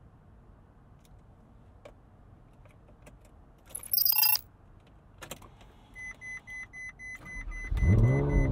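A short bright rattle about four seconds in and a click, then a steady electronic chime joins a quick series of cranking pulses. Near the end the Ferrari 458 Spider's 4.5-litre F136 V8 catches and flares up in revs on starting, then drops back.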